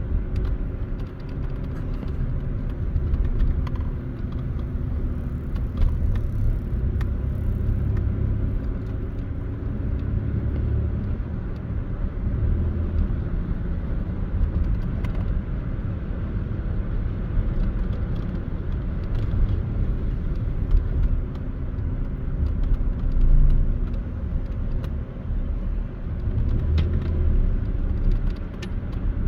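Car driving on the road: a steady low rumble of engine and tyres, with a few faint clicks and rattles here and there.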